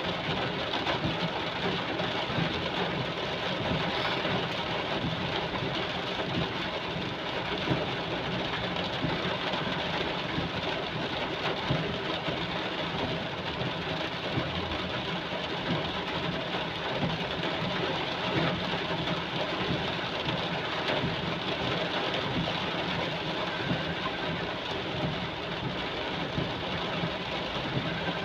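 Heavy rain pouring down in a steady, dense, unbroken rush.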